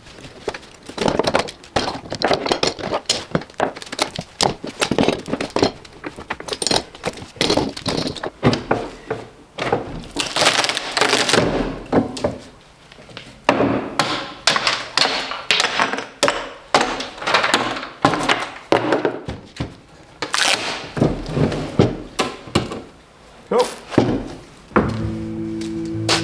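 Clamps being loosened and taken off a glued-up laminated hardwood tiller: a long run of irregular knocks, clanks and thunks of metal clamps against wood.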